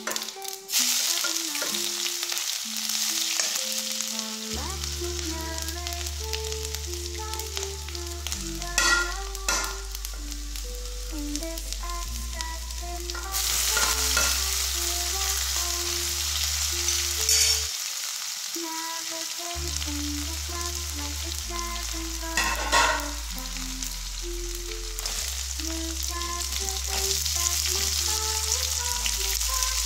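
Whole spices and green chillies sizzling in hot oil in a steel kadai for a tempering, with a steady hiss and a spatula stirring and scraping. There are a few sharper clatters along the way. Background music with a bass line plays underneath.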